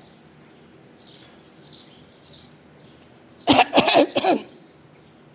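Faint bird chirps, then about three and a half seconds in a loud vocal sound lasting under a second.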